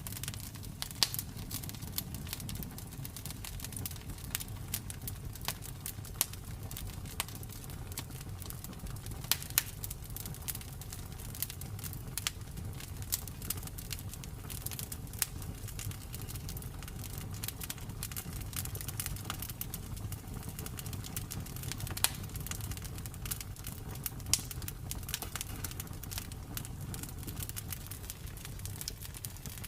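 Campfire burning, the wood crackling with irregular sharp snaps and a few louder pops over a steady low rumble of the flames.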